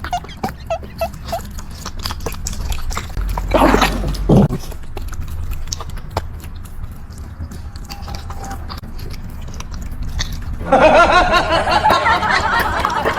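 A dog chewing and biting food, with many small crunching clicks. A brief louder sound comes about four seconds in, and a louder sound with many pitched tones starts near the end.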